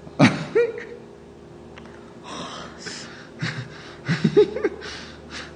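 A person's voice in short breathy bursts, like laughing and gasping: a sharp outburst near the start, a breathy stretch in the middle and a quick run of short laughs later. A steady low hum runs behind.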